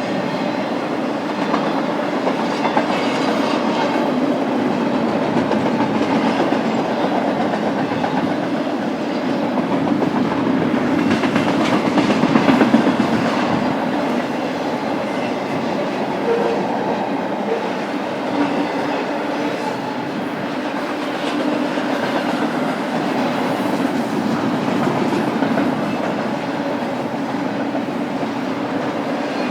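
BNSF freight train rolling past steadily, its wheels clacking over the rail joints.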